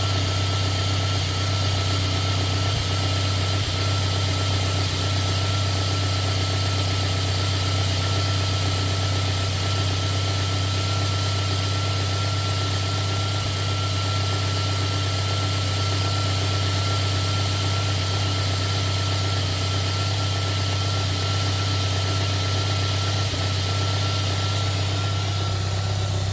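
Toyota 3S-GTE turbocharged four-cylinder engine idling steadily, with a thin steady whine over the engine note. The engine is running with an intermittent lean misfire, which is barely audible here.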